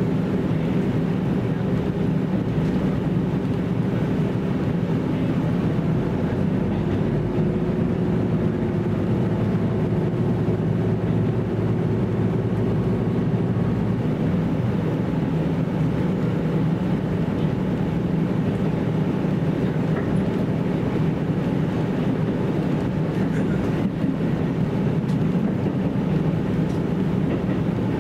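JR Central KiHa 75 diesel railcar running along the line, heard from inside the passenger cabin: a steady drone of the diesel engine with wheel and rail noise, holding even throughout.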